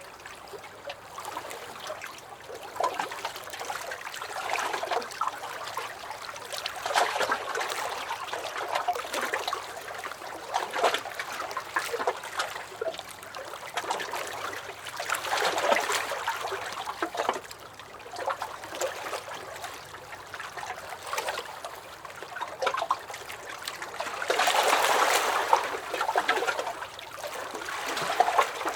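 Small lake waves lapping and sloshing against a dock: an irregular run of little splashes and gurgles, swelling every few seconds, with the biggest surge about 25 seconds in.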